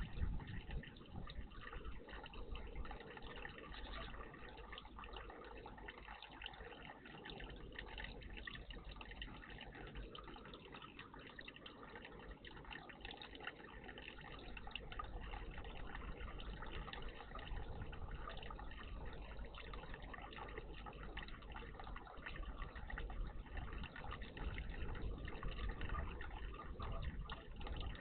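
Water trickling and splashing steadily at a garden bird bath.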